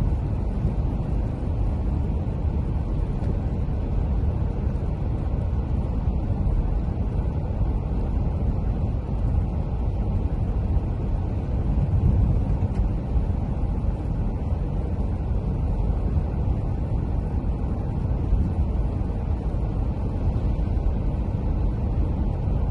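Steady rain with a continuous deep rumble underneath, unbroken and even throughout.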